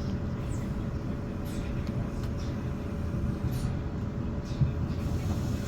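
Cabin running noise of a Class 450 Desiro electric multiple unit: a steady low rumble of wheels on track under a constant hum, with a few brief, faint, falling high squeaks.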